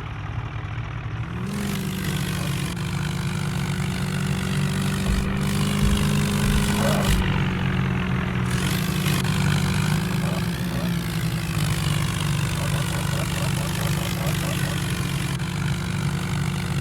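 Tractor engine running steadily. Its speed rises a little about a second and a half in, then holds, easing back slightly about seven seconds in.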